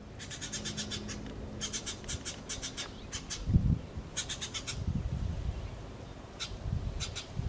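Birds chirping in quick runs of sharp, evenly repeated high notes, several runs one after another. A few low thumps sound under them, the loudest about three and a half seconds in.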